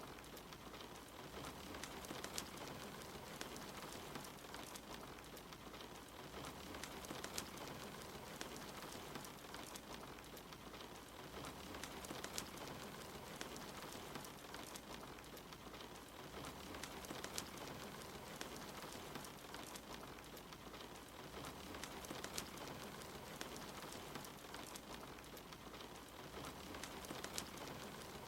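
Soft, steady rain with the scattered sharp crackles and pops of a fireplace fire.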